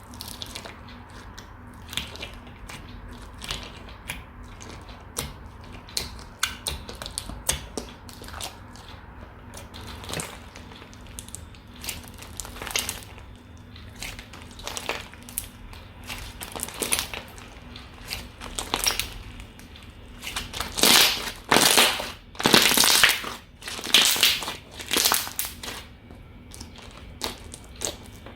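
Slime being squeezed, stretched and poked by hand: a steady series of short clicky pops, with a run of about five louder, longer squishes about three-quarters of the way through.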